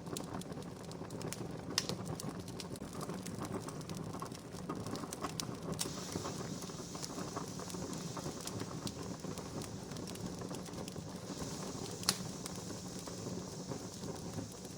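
Wood fire crackling, a steady hiss scattered with small irregular snaps and two sharper pops, about two seconds in and about twelve seconds in.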